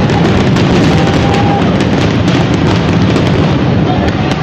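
Fireworks display going off continuously: a dense run of bangs and crackling with no pause.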